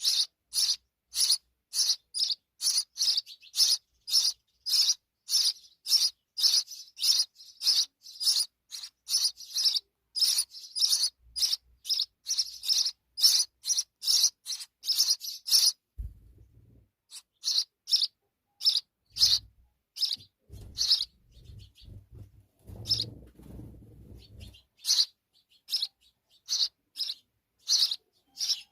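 Sparrow chirping over and over, short high cheeps at about two a second. Partway through, the chirps pause and become sparser, with a low rumbling noise under them for several seconds, before the steady chirping resumes near the end.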